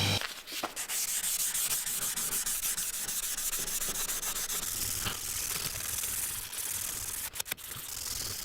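Steel knife blade being sanded: a rough, scratchy abrasive hiss with quick repeated strokes, just after a power tool's motor hum cuts off at the very start.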